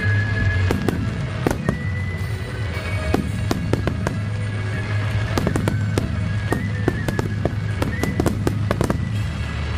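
Aerial fireworks display: dozens of sharp bursts and crackling reports, irregular and overlapping, over a steady low rumble, with music playing underneath.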